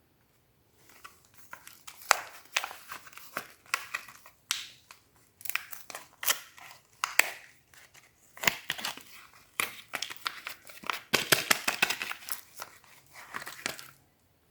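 A soap bar's wrapper being opened by hand: a long run of crackling, crinkling and tearing with sharp snaps. It starts about a second in, is busiest near the end, then stops.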